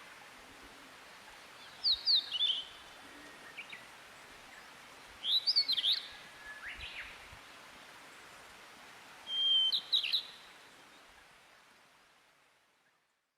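Wild niltava singing: three short phrases of quick, high, sliding notes, a few seconds apart, over a steady hiss that fades away near the end.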